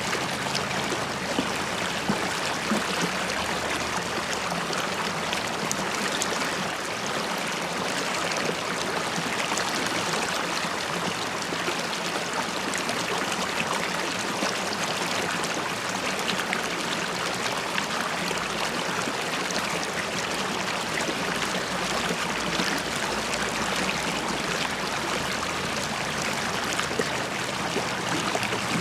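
River water running and bubbling over stones: a steady, even rush with fine babbling.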